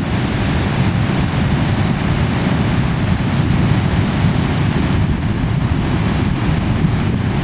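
Big ocean waves breaking as a steady, unbroken rush of surf, with wind rumbling on the microphone.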